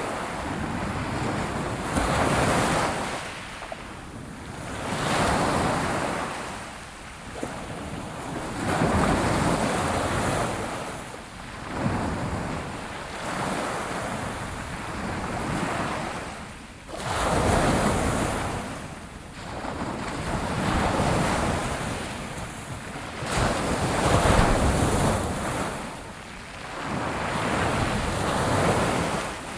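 Ocean waves breaking and washing on the shore, the surf swelling and falling back every few seconds, with some wind noise on the microphone.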